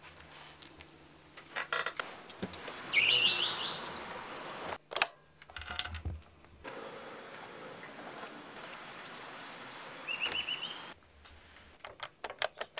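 Songbirds chirping in short, quick warbled phrases over a steady background hiss, with a few sharp clicks.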